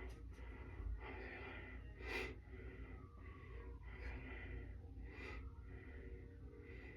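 A person breathing, with a couple of louder breaths about two and five seconds in.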